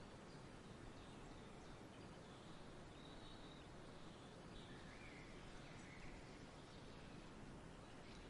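Faint outdoor nature ambience: a steady soft hiss with a few faint, short bird chirps around the middle.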